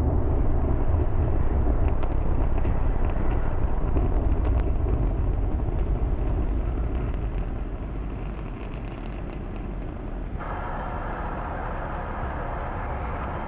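Falcon Heavy rocket's 27 Merlin 1D engines climbing after liftoff: a deep, steady rumble with faint crackle. The rumble fades slowly and shifts suddenly to a brighter, hissier sound about ten seconds in.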